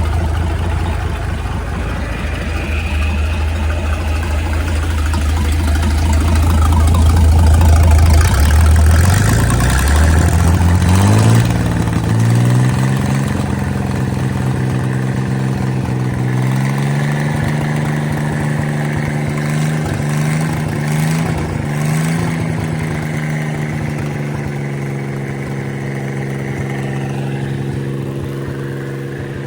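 Freshly overhauled Chris-Craft Model W six-cylinder marine engine running on a test fire with cooling water hooked up. It runs low and steady, is brought up in speed about nine to twelve seconds in, steps up again a few seconds later, then holds a steady higher speed.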